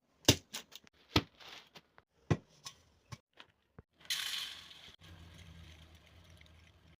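Jaal muri snack preparation: a series of sharp clicks and crunchy knocks, then about a second of dense crackling rustle about four seconds in, followed by a faint low hum.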